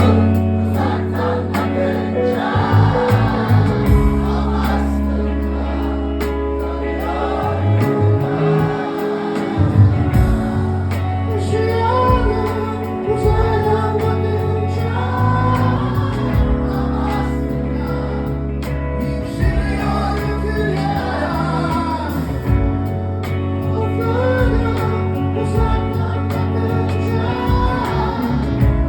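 Live band music with singing, over a steady, heavy bass line.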